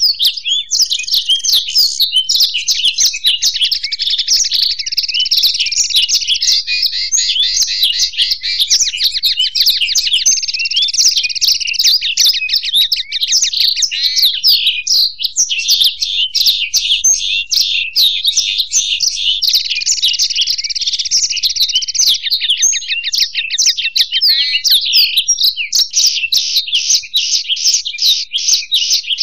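Black-throated canary (blackthroat) and European goldfinch singing without pause: a dense run of fast twittering notes, broken by longer buzzy trills.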